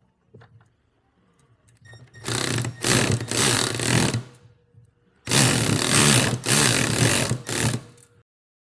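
A small power tool's motor running in two bursts, about two and three seconds long, cutting off suddenly after each.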